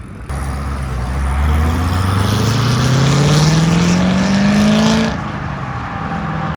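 Chevrolet Corvette Z06's V8 pulling away under hard acceleration. The engine note climbs steadily for about five seconds in one long pull, then drops off suddenly as the driver lifts.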